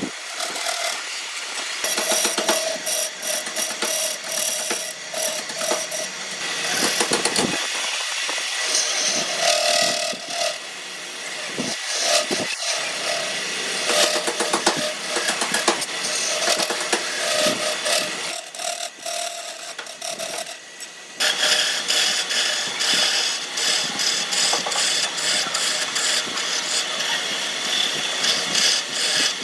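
Power tools working wood, the machine noise changing several times and shifting abruptly about two-thirds of the way through.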